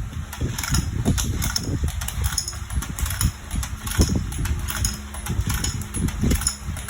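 Battery-powered domino-laying toy train running: a steady small-motor hum with many irregular plastic clicks and clatters.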